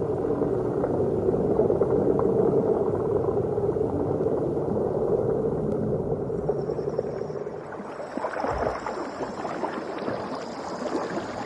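Boat engine running with a steady drone, which drops away about seven seconds in, leaving water sloshing and gurgling.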